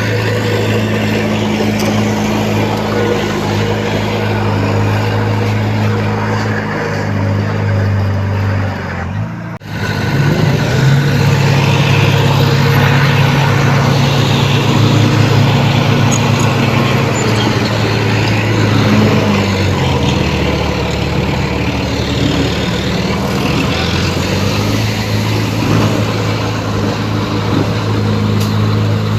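Heavy diesel engines of earthmoving machines working, their pitch shifting up and down with load. The sound breaks off for a moment about nine and a half seconds in, then resumes.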